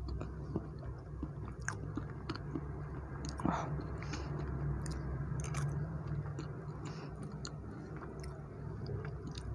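Close-miked chewing of soft black forest cake with whipped cream: wet mouth sounds and scattered small clicks over a steady low hum.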